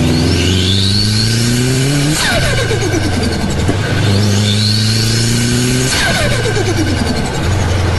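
Turbocharged Toyota 2JZ straight-six revved up twice, engine pitch climbing with a rising turbo whistle each time. Each rev ends in a sharp falling whoosh as the throttle closes.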